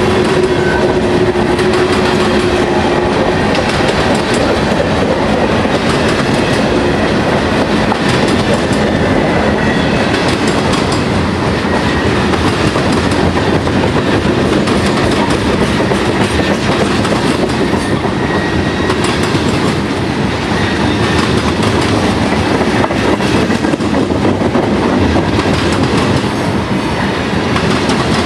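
Freight train cars, covered hoppers then tank cars, rolling past at close range: a steady loud rumble of steel wheels on rail with clickety-clack over the rail joints. A thin whine sounds for the first few seconds.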